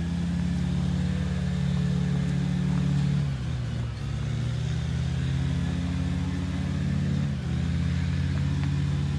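A car engine idling steadily close by, its note dipping and recovering twice a few seconds apart.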